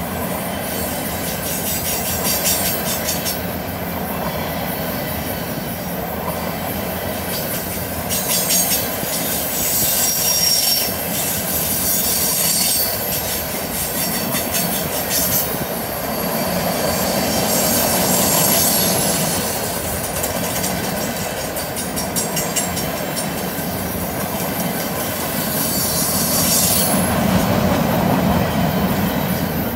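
Empty freight flatcars rolling past on a curve: steady wheel-on-rail rumble with rapid clicking over the rail joints, and high-pitched wheel flange squeal that comes and goes several times.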